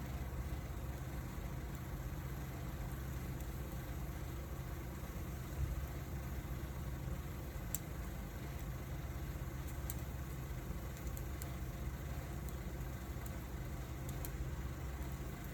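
Wood fire burning with a few sharp crackles and pops from the firewood, over a steady low rumble.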